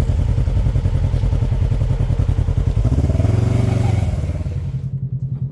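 Side-by-side UTV engine running hard in the mud, revving up and back down about three seconds in. A steady hiss over it cuts off near the end.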